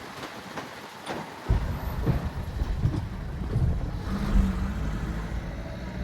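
Low, steady road rumble of a moving car heard from inside, starting suddenly about a second and a half in after a quieter stretch of faint clicks.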